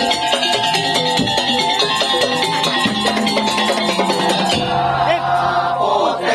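Madurese tong-tong (daul) ensemble playing a lively tune: percussion with pitched melody over a steady beat. The highest tones drop away about two-thirds of the way through.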